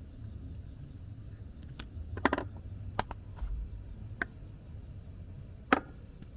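Steady high-pitched insect chirring over a low rumble, with a handful of scattered sharp taps, the clearest a few just after two seconds in and a single one near the end.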